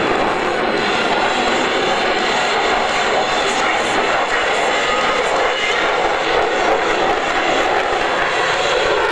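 Jet noise from an F-22 Raptor's twin F119 engines as the fighter flies its display, a loud, steady rushing sound with no breaks.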